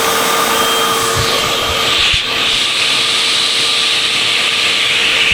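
Vacuum cleaner running steadily, a motor whine under an airflow hiss that grows stronger about a second in, with a few light knocks as it works around cubbies.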